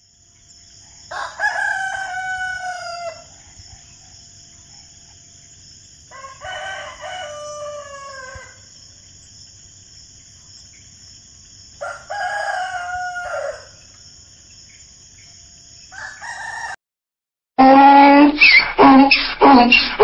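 Rooster crowing cock-a-doodle-doo three times, each crow about two seconds long and dropping in pitch at the end, over a steady high hiss. Near the end a donkey starts braying, much louder than the crows, in rapid back-and-forth hee-haw calls.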